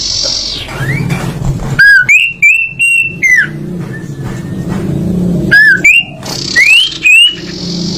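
Songbird singing loud, clear whistled phrases of rising and slurred notes in two bursts, one about two seconds in and one near the middle-to-end. A steady low hum runs underneath.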